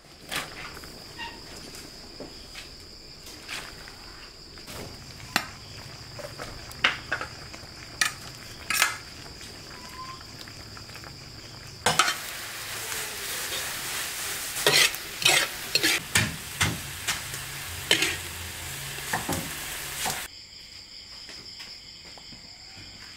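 A utensil clicking and scraping in a pan, then from about twelve seconds in, small shrimp sizzling loudly as they are stir-fried in a hot wok, with the spatula knocking against the metal; the sizzle cuts off suddenly about eight seconds later. A steady high insect trill runs underneath.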